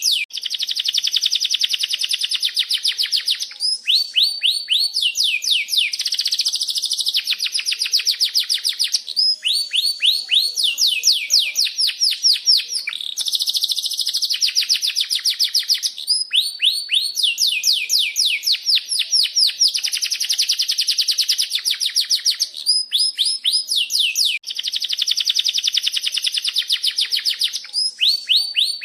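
Domestic canary singing a long, unbroken song of rolling trills: fast runs of repeated chirps, some sweeping downward, switching to a new run every second or two.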